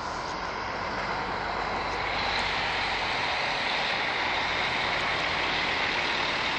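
Scania Irizar i8 coach driving past, a steady rush of engine and tyre noise that grows louder about two seconds in and then holds.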